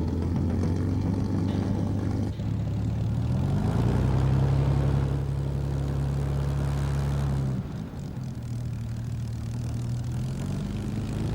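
Piston engine of a propeller aircraft running steadily. Its pitch rises about three seconds in, holds, then drops sharply past the middle and settles at a lower steady note.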